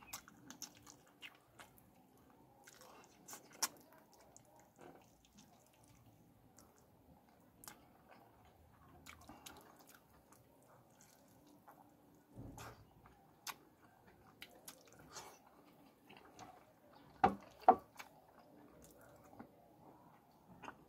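Close-miked chewing and wet, squishy mouth sounds of a man eating fish curry with his fingers, with scattered soft clicks. Two sharper, louder clicks come in quick succession about three-quarters of the way through.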